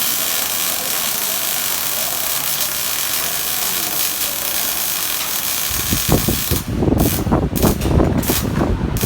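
Electric arc welding: a steady, loud hiss and crackle from the arc. About six seconds in it gives way to loud, irregular knocking and rumbling.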